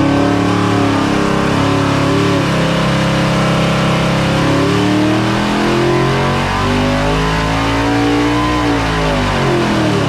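Naturally aspirated iron-block LS V8, stroked from 6.0 to 7.0 litres (427 ci), doing a pull under load on an engine dyno. The revs climb over several seconds, then fall away near the end.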